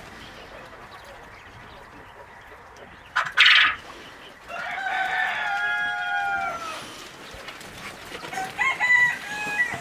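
Rooster crowing once, a long call of about two seconds that drops in pitch at the end, preceded by a short harsh squawk and followed by broken clucking calls from the flock.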